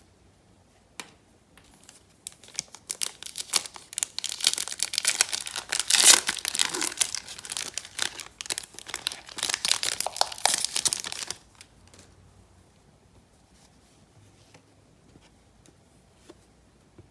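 A foil trading-card pack wrapper being torn open and crinkled: a dense run of crackling that starts about two seconds in and stops suddenly after about nine seconds. A few faint clicks and rustles come before and after it.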